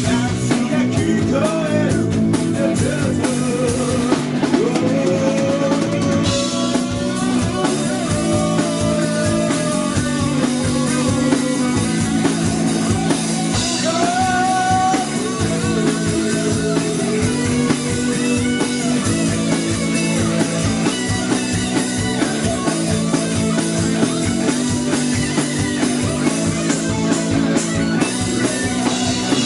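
Live rock band playing: drum kit keeping a steady beat under electric guitar and bass, with a gliding lead melody on top.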